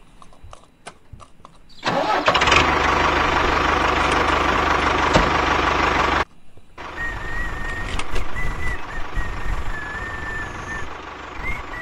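Tractor engine starting about two seconds in and running steadily at a loud level, cut off abruptly about six seconds in. After a short gap a second engine sound runs with a wavering high whine over it. A few faint clicks come before the engine starts.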